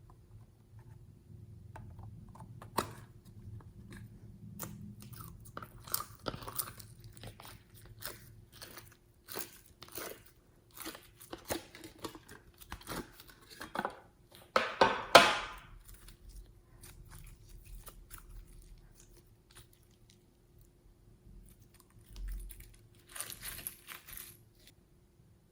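Slime being squished and kneaded by hand: irregular wet clicks and crackling pops, with a louder squelching burst about fifteen seconds in and another near the end.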